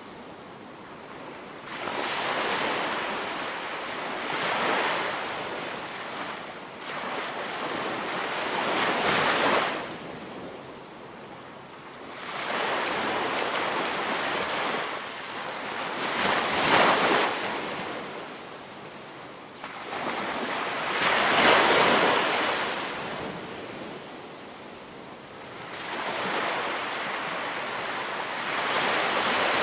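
Ocean waves washing onto a beach, each one swelling to a peak and falling away about every four to five seconds over a steady hiss of surf.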